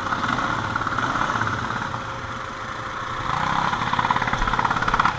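ATV engine running near idle, then revving up about three seconds in.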